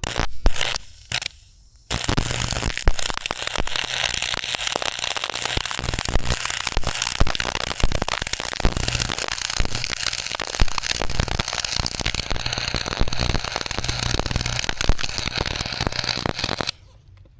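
Electric arc welding on steel: a few short arc starts in the first two seconds, then a continuous crackling weld with a low hum that runs until it stops suddenly near the end.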